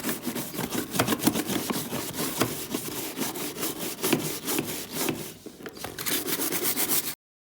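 A wet brush scrubbing back and forth in quick strokes on part of a washing machine, with a brief lull before the strokes resume and then cut off suddenly near the end.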